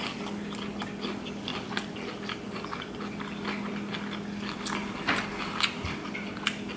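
Close-miked chewing of a mouthful of fried shrimp and snow crab meat, with many short, wet mouth clicks and smacks. A steady low hum runs underneath.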